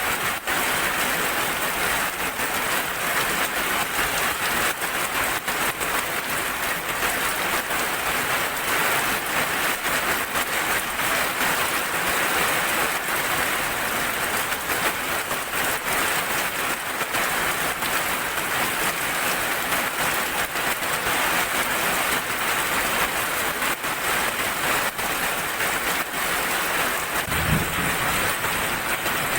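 Heavy rain falling steadily on surfaces, a dense even hiss full of fine drop ticks. A brief low thump sounds near the end.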